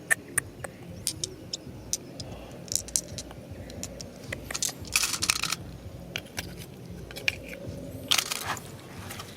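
Stones clicking and knocking together in irregular taps, with two short scrapes about five and eight seconds in, as river gravel is sifted by hand.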